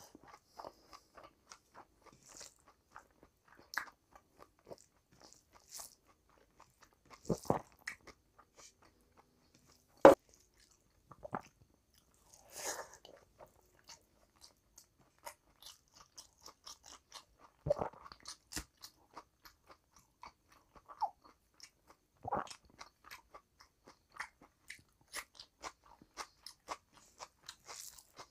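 Close-miked eating of rice and curry by hand: chewing and biting with many small wet mouth clicks, and a few louder crunches, the loudest about ten seconds in.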